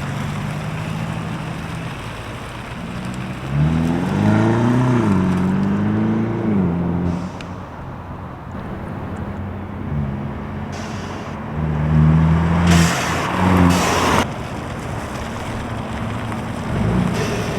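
Mercedes E300's exhaust, fitted with QTP exhaust cutouts and heard from outside the car, running at idle with revs. A longer rev rises and falls about four seconds in, and a few short blips come around twelve to fourteen seconds in.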